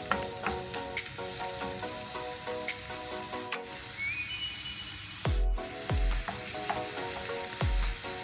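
Diced onion and minced garlic sizzling as they fry in oil in a pan, stirred, with clicks of the utensil against the pan. Background music with deep bass thumps plays underneath, the thumps coming in about five seconds in.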